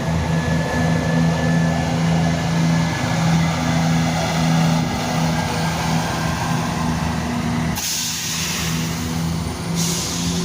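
Class 170 Turbostar diesel multiple unit pulling away from the platform, its diesel engines running with a steady drone. Two short bursts of air hiss come near the end.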